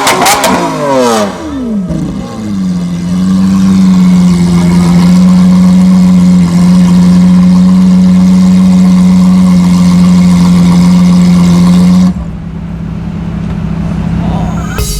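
Supercar engine coming off a rev with crackles and pops as the pitch falls. It then settles into a loud, steady note held at constant revs for about ten seconds and cuts off suddenly near the end, leaving a quieter low hum.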